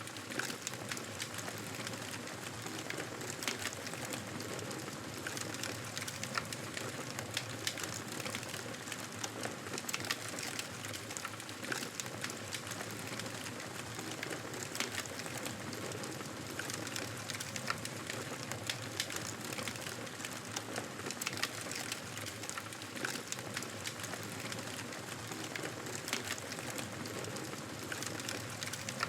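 Wood fire burning in a fireplace: a steady hiss of flames with frequent sharp, irregular crackles and pops of burning logs.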